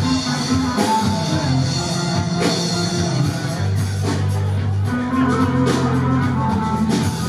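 Anatolian rock band playing live, an instrumental passage of guitar over sustained low bass notes and drum strikes.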